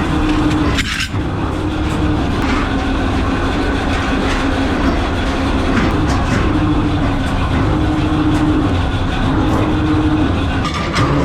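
Steady mechanical din of factory machinery running, with a humming tone that comes and goes and scattered light clicks.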